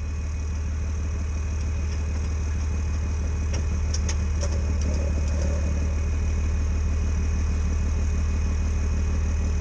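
An engine idling steadily, with a few light clicks about four seconds in.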